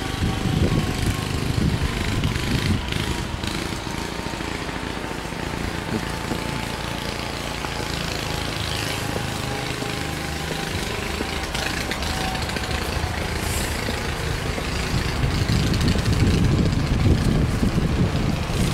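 Wind buffeting the microphone, with an engine running in the background and a faint tone that falls slowly in pitch over the first twelve seconds or so.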